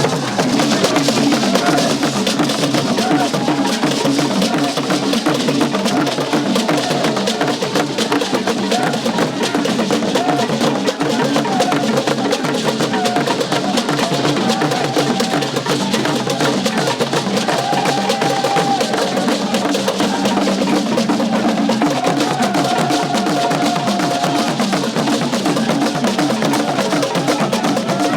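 Percussion music: drums playing a dense, steady rhythm, with a few brief held higher notes now and then.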